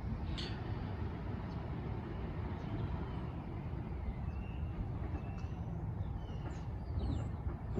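Side-loader garbage truck's diesel engine running with a steady low rumble. A few faint bird chirps sound above it in the second half.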